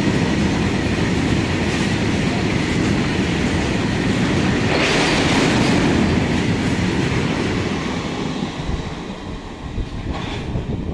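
Train running on the track, a steady rumble of wheels on rail with some clickety-clack. About five seconds in there is a brief rise of higher-pitched noise. The noise eases off in the last few seconds.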